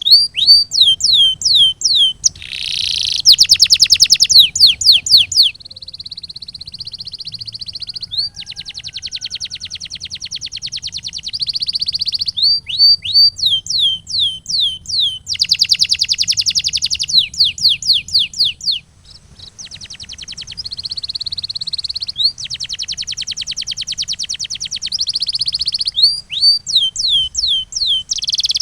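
Male canary singing in loud, continuous song. Fast rolling trills alternate with runs of quick, high, downward-sliding whistles, with short pauses between phrases.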